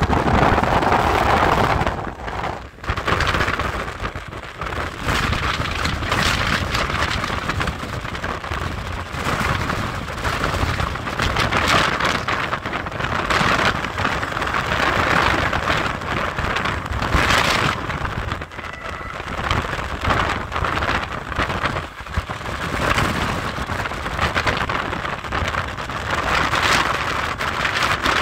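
Moving passenger train heard from an open carriage window: wind rushing over the microphone above the train's running noise. It swells and eases in uneven surges.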